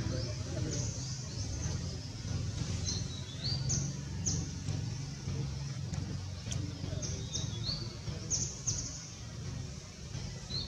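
Small birds chirping, many short high calls sweeping down or up in pitch, scattered through the whole stretch over a steady low background rumble.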